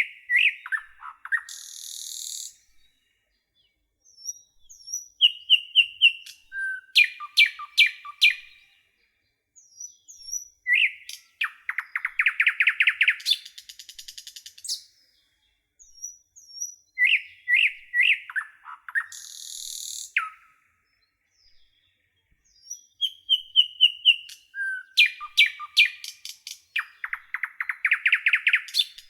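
Nightingale singing in separate phrases of clear whistled notes, fast rattling trills and buzzy notes, each phrase a few seconds long with short pauses between. The same run of phrases comes round again after about 17 seconds.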